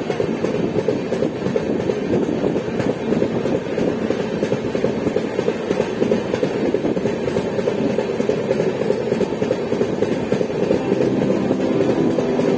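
Passenger train coach running at speed through a station and onto open line: a steady, loud rumble and clatter of the wheels on the track.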